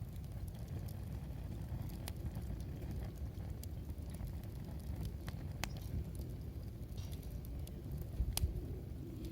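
Wood fire crackling with scattered sharp pops, the loudest a little before the end, over a low steady rumble.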